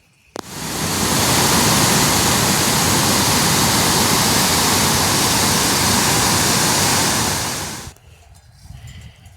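A loud, steady rushing noise, like pouring water or a downpour, that starts abruptly with a click about half a second in and dies away about seven and a half seconds later.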